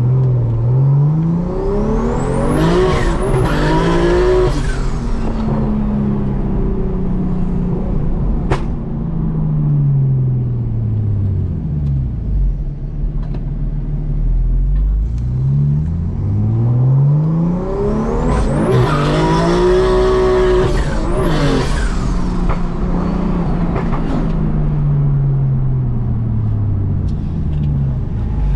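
BMW M2 Competition's single-turbo S55 inline-six, with a titanium straight exhaust, accelerating hard twice. Each time the engine note climbs with a faint high turbo whistle near the top, then falls away slowly as the car comes off the throttle. There is one sharp crack about eight seconds in.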